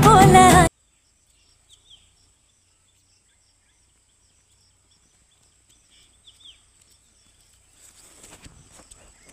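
A Tamil song with singing cuts off abruptly less than a second in, leaving faint outdoor field ambience: a thin steady high-pitched insect drone, a few short faint chirps, and faint rustling and knocks near the end.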